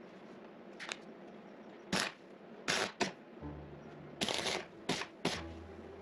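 A series of short, sharp scraping strokes, about eight of them, as the cracked cast perimeter-light casting is cleaned up by hand to prepare it for welding. Low background music notes come in about three and a half seconds in.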